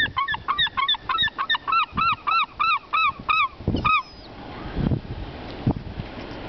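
A gull calling a rapid series of about a dozen short arched cries, about three a second, stopping about four seconds in.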